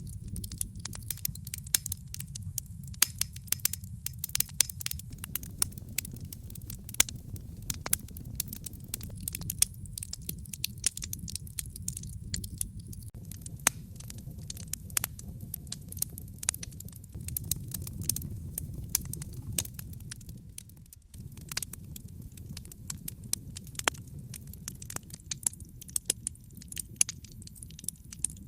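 Wood fire crackling: frequent irregular sharp pops and snaps over a low steady rumble, which drops away for a moment about two-thirds through.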